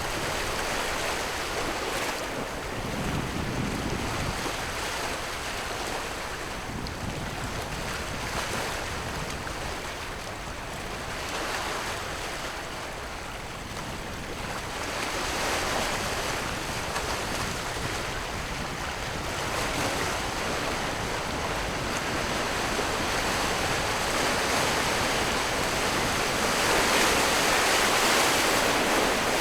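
Sea surf washing in, a steady rush of water that swells and eases over several seconds and grows louder near the end, with wind on the microphone.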